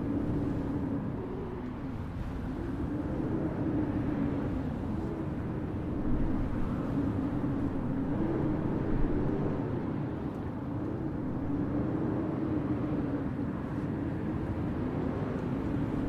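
Blizzard wind blowing steadily over a low rumble, with a low howl that slowly wavers up and down in pitch.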